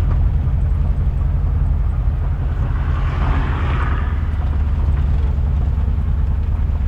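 Volkswagen Kombi van driving on the road, a steady low engine and road drone heard from inside, with a louder rushing swell about three seconds in.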